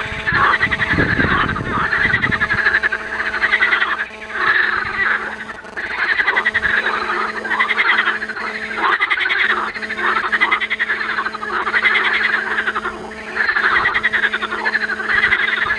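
A chorus of frogs croaking in a marsh pond: many overlapping rattling calls that swell and fall in waves every second or two. A steady low hum runs underneath.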